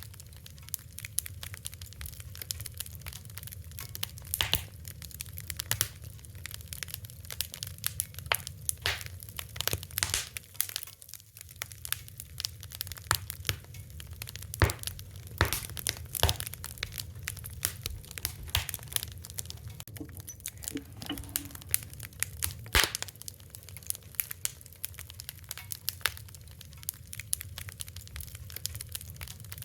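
Wood fire crackling: a dense run of sharp pops and snaps, a few of them louder, over a steady low rumble.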